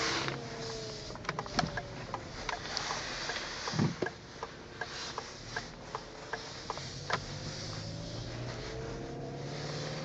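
Lincoln MKZ engine idling steadily shortly after a cold start, a low hum with some slow rises and falls in pitch, with scattered light clicks and taps over it.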